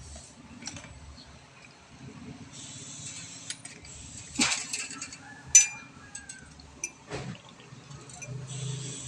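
Air being blown through a clogged refrigerator evaporator's tubing to flush it out, a hiss that starts about two and a half seconds in and stops about halfway, with several sharp clinks and clicks of metal parts being handled.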